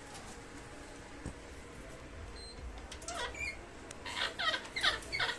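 Baby parrot calling: low background for the first few seconds, then a quick run of short squeaky calls that bend in pitch, getting louder toward the end.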